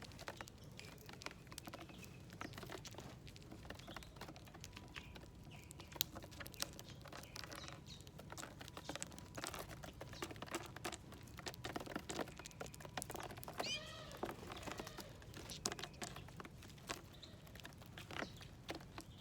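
Birds feeding at a seed plate: scattered small taps and clicks of pecking, with one short, wavering call about fourteen seconds in.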